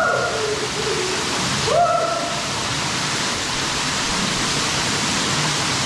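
Waterfall pouring steadily, a loud even rush of water, broken by two short shouts from a person: one at the very start and one about two seconds in.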